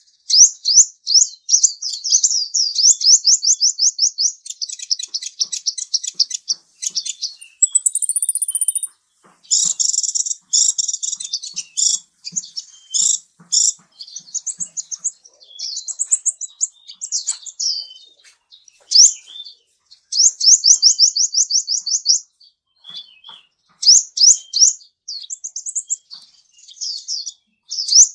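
A small bird singing close by, a long varied song of high-pitched rapid trills and chirps, with a harsher, buzzy stretch about ten seconds in.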